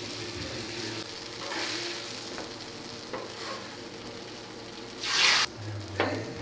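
Sauce-soaked pambazo bread frying on a hot flat-top griddle, a steady sizzle. A bit past five seconds in, a louder burst of sizzling as another wet bread is laid on the metal, then a sharp scrape of a metal spatula on the griddle.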